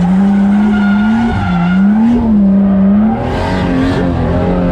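630-horsepower drift car's engine running at high revs, its pitch rising and falling as the throttle is worked through a drift.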